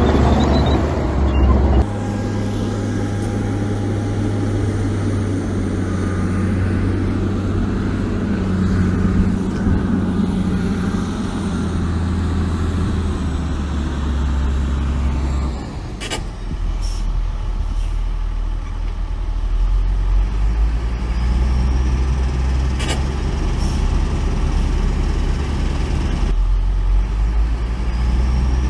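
Heavy diesel engines of earthmoving machinery running steadily. The engine sound changes abruptly about two seconds in and again around halfway, and a few short, sharp knocks come in the second half.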